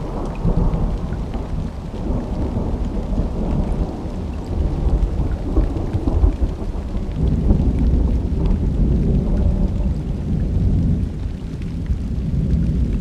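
Thunderstorm: long, rolling thunder rumbling low and continuously over steady rain, swelling toward the middle and easing off near the end.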